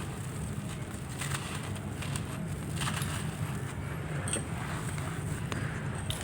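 Handmade gritty lumps crumbling, heard as scattered short crackly breaks about a second apart over a steady low rumble.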